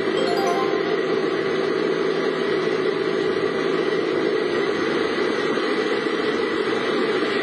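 A vehicle running steadily, with engine and cabin noise under a dense, even hiss and no change throughout.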